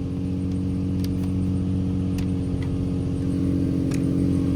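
Infiniti G35/G37 V6 engine idling steadily shortly after a cold start, with a few faint clicks.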